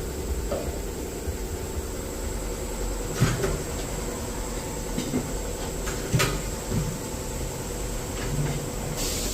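Tyre-shop machinery running with a steady hum while a new tyre is fitted and balanced on its rim, with four or five sharp knocks spread through the middle.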